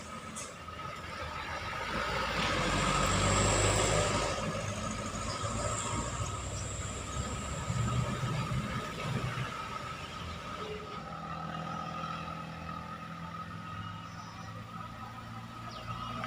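Road traffic: a vehicle passes close by, loudest about three to four seconds in, followed by engines running steadily.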